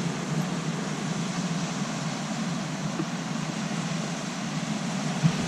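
Steady, even hiss of waves washing on a pebble beach, with no distinct breaks. A brief knock near the end.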